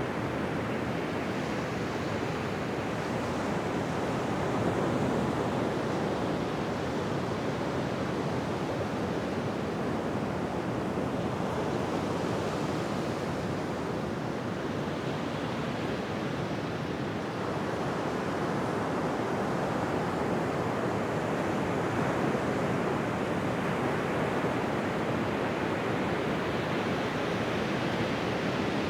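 Ocean waves breaking on a beach, a continuous wash of surf that swells and eases gently every few seconds.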